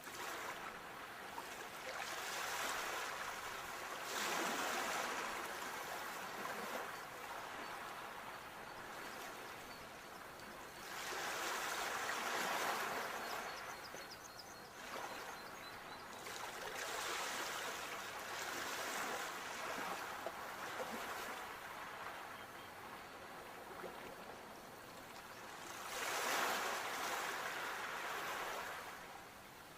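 Sea waves washing onto the shore, the surf swelling and falling away every several seconds.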